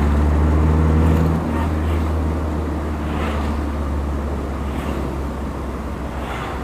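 Toyota 2T four-cylinder engine with twin carburettors running steadily under throttle, its deep hum loudest for the first second or so and then easing off a little.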